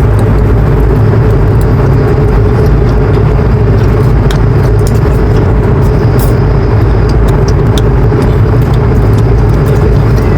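Loud, steady vehicle drone with a constant low hum.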